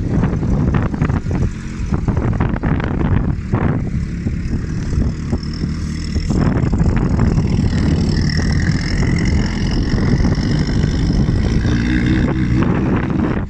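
Suzuki Samurai engine running hard under load while driving through sand, getting louder about six seconds in.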